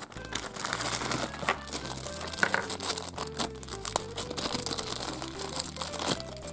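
Small clear plastic bag crinkling and rustling as hands handle and open it.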